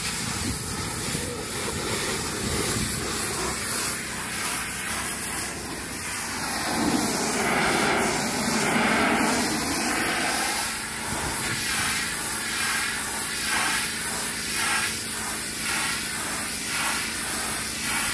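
Pressure washer's high-pressure water jet spraying a hauled-out sailboat's hull: a steady hiss of spray that shifts in tone as the jet moves across the surface.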